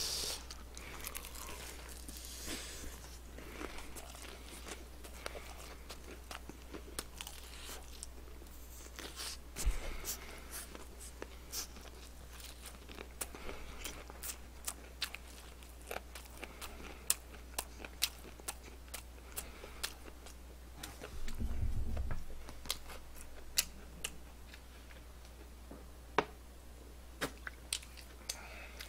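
Fried chicken crust crunching as it is bitten and chewed, a run of many small, sharp crunches.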